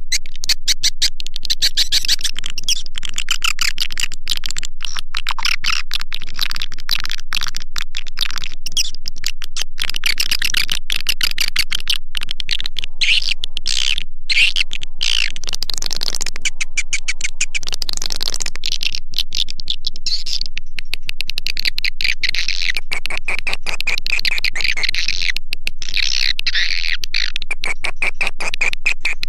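Swiftlet-house lure call: a recorded chorus of edible-nest swiftlets twittering, played loud for attracting swiftlets to nest. The chattering is continuous and dense, made of rapid high trills and clicking chirps that never break.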